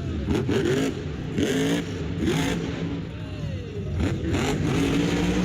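Monster truck engine revving up and down repeatedly, its pitch rising and falling over continuous noise.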